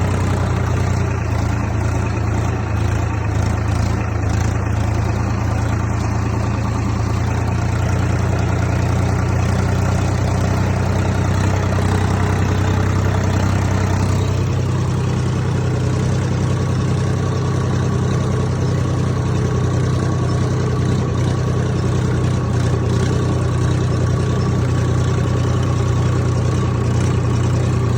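Swaraj tractor's diesel engine running steadily while pulling a harrow; its note shifts slightly about halfway through.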